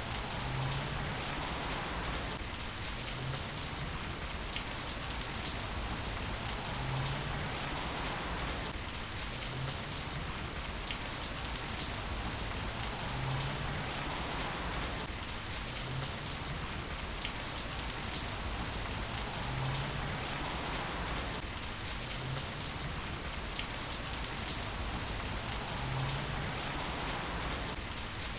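Heavy rain falling steadily on hard surfaces, with scattered louder drops ticking through it. The same stretch of rain repeats about every six seconds.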